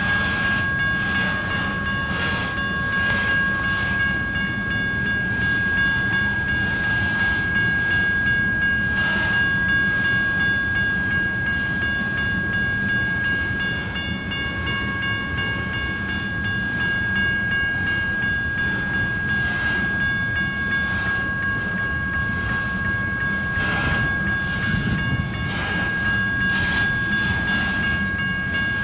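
Tank cars of a long freight train rolling through a grade crossing: a steady rumble with irregular clacks as the wheels pass over the crossing. Over it, a steady high ringing from the crossing signal's bell carries on throughout.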